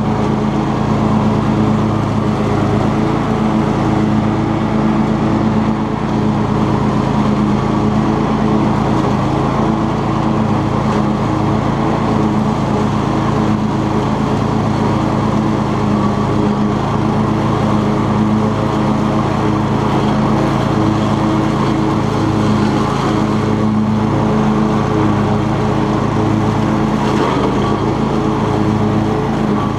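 Cub Cadet XT2 riding lawn tractor running steadily at a constant engine speed, with its 42-inch mower deck engaged.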